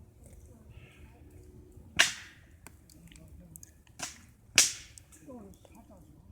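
Campfire crackling, with three loud, sharp pops about two, four and four and a half seconds in, and small crackles between them.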